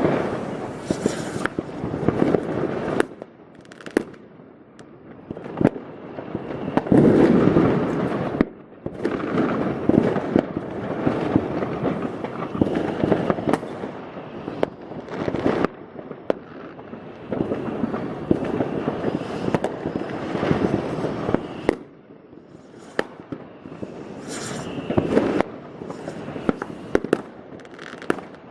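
New Year's Eve fireworks: rockets and firecrackers going off densely, with many sharp bangs over a continuous crackle that swells and eases in waves.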